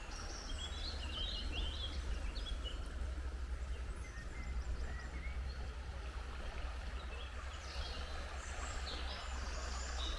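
River water rushing steadily over stones, with a constant low rumble underneath. Small birds chirp briefly about a second in and again near the end.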